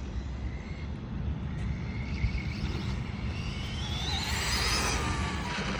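Motor whine of a Losi Promoto-MX RC motorcycle. It rises in pitch as the bike speeds up about three seconds in, then drops lower near the end, over a steady low rumble.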